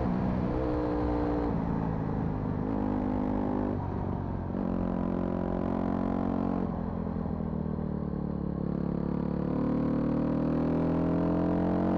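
Vehicle engine running while driving, its pitch shifting up and down with the revs and climbing steadily near the end as it speeds up.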